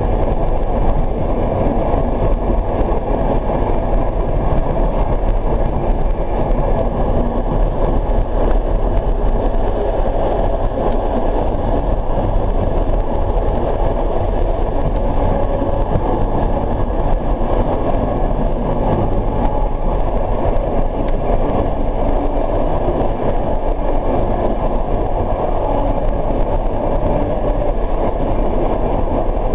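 Moving suburban passenger train heard from inside the carriage: a steady, even rumble of wheels rolling on the rails.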